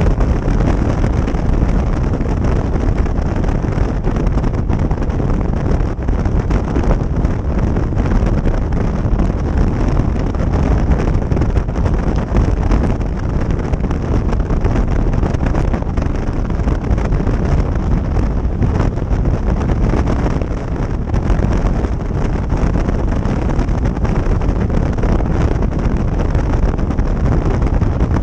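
Wind rushing over the microphone of a motorcycle under way, with vehicle and road noise mixed in, steady throughout.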